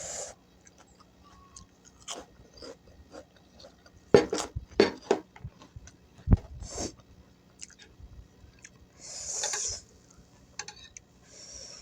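Close-miked chewing and crunching of gado-gado: raw vegetables and peanut sauce being bitten and chewed. The sharpest crunches come about four to five seconds in and again a little after six seconds, and a breathy hiss, like a sniff or exhale, comes about nine seconds in.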